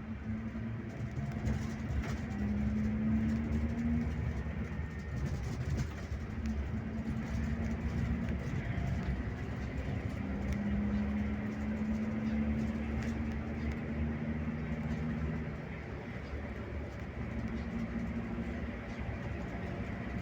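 Scania K360IB touring bus running on the road: a steady low engine and road rumble, with the engine note shifting in pitch several times as it pulls.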